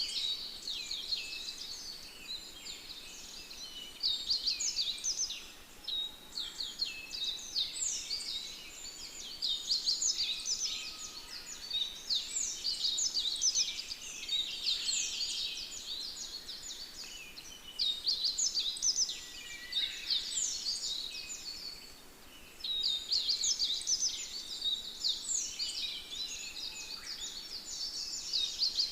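Many songbirds singing together in a dense chorus of quick, high-pitched chirps and trills, overlapping continuously and swelling in waves with a couple of brief lulls.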